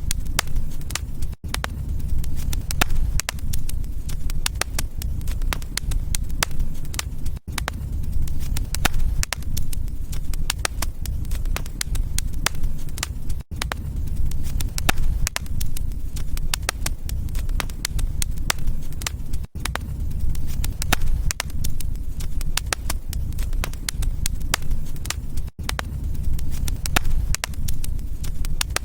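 Wood fire burning in a fireplace: a steady low rumble of the flames with dense, irregular crackles and pops throughout. The sound drops out very briefly about every six seconds.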